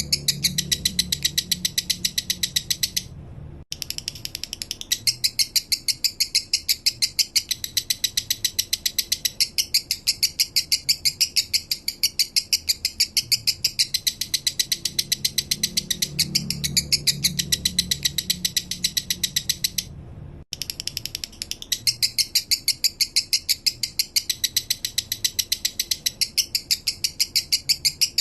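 Male lovebird singing a long, fast, chattering song of high chips repeated several times a second, with two brief breaks.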